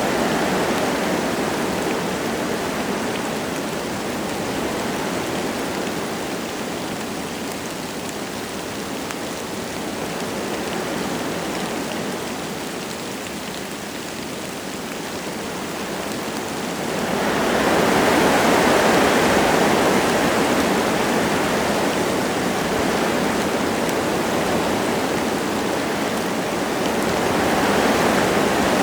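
Wind gusting through forest trees with light rain, a steady rushing noise that swells into a louder gust a little past halfway and again near the end.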